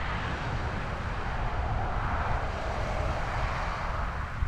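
Wind rumbling on the microphone and a steady rushing noise from riding a bicycle, swelling toward the middle and easing near the end.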